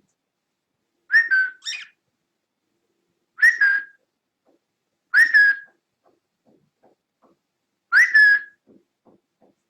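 Cockatiel whistling: four short loud calls a second or two apart, each a quick whistle that jumps up and then drops, the first one doubled. Faint light ticks fall between the later calls.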